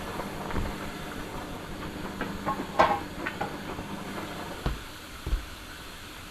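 Washing machine with freshly replaced drum bearings running on test: a steady motor hum with a hiss and scattered clicks and knocks. Near the end the hum stops after two low thumps.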